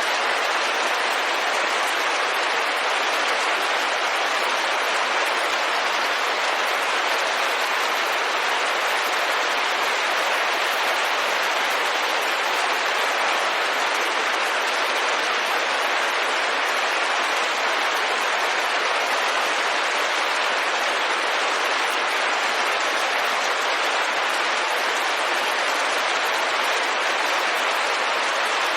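Steady rain falling on a window, an even hiss that does not change.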